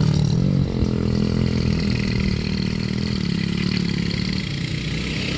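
Mini bike engine running at moderate revs with its pitch wavering slightly.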